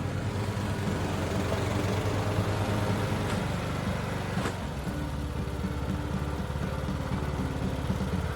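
Ride-on lawn mower's small engine running steadily.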